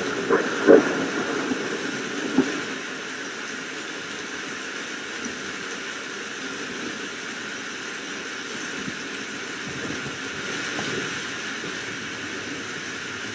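Steady rain falling, an even hiss, with a few louder irregular splashes or knocks in the first two seconds or so.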